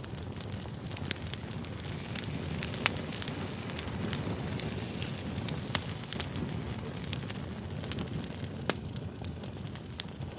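Wood fire burning: a steady low rush of flame with sharp crackles and pops from the burning logs, about one a second.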